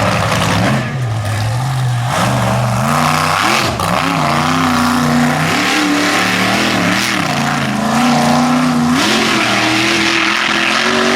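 Mega truck engine revving hard through a mud pit, its pitch rising and falling again and again as the throttle is worked.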